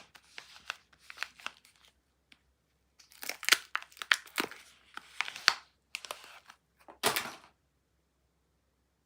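A bar of soap being unwrapped by hand: its wrapper crinkling and crackling in quick bursts, then one longer tear about seven seconds in.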